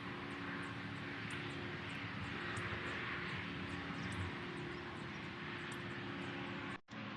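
Steady outdoor background noise with a low hum and faint, short, high chirps scattered through it. It cuts off abruptly shortly before the end.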